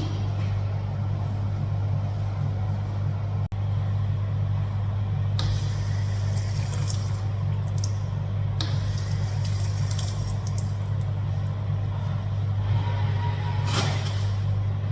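A steady low mechanical hum, like a vehicle's engine and road noise heard from inside, with a few short rushes of noise.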